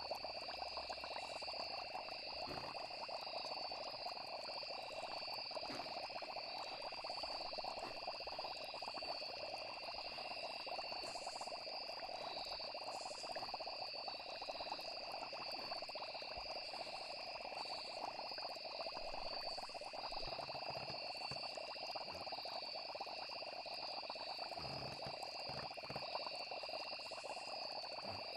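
Steady night chorus of frogs and crickets, an even high trilling over a dense lower croaking texture, unchanging throughout.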